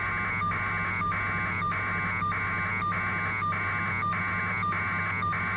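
Electronic warbling tones on a telephone line, coming in short pulses about one and a half times a second over a steady low hum, like line noise on the phone connection.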